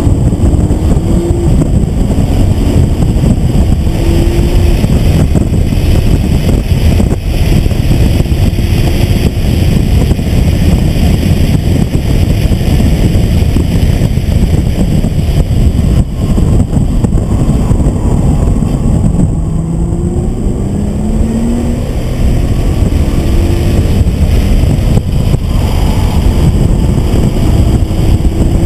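Nissan GT-R's twin-turbo 3.8-litre V6 heard from inside the cabin at full track pace, the revs climbing and dropping back several times as it pulls through the gears. Heavy road and wind noise fills the car throughout.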